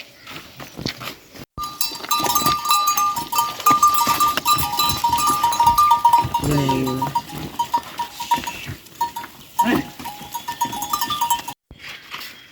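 A goat bleats about six and a half seconds in and calls again near ten seconds, over a steady high-pitched trilling with clicks. The sound starts suddenly about a second and a half in and cuts off near the end.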